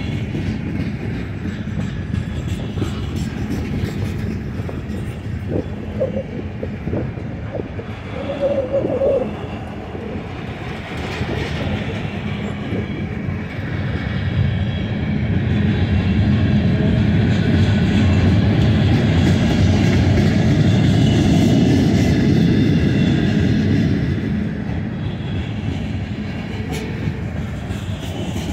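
Freight cars of a long manifest train rolling past at trackside: a steady rumble of steel wheels on the rails that grows louder for several seconds in the middle, then eases.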